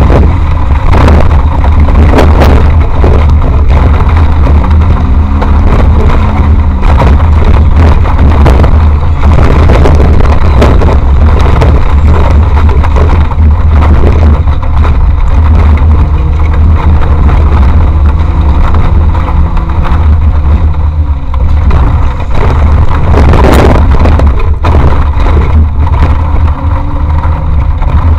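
Off-road race vehicle heard on board, its engine revving up and down under load, with frequent sharp knocks and rattles from driving over rough ground and a heavy low rumble underneath.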